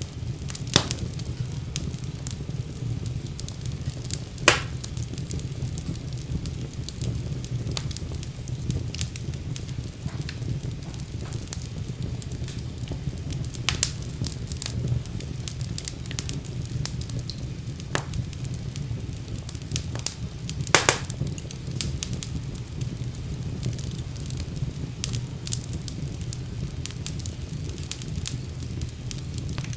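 Wood fire crackling in a fireplace, with a steady low rumble of the flames and frequent sharp pops and snaps, a few louder ones scattered through.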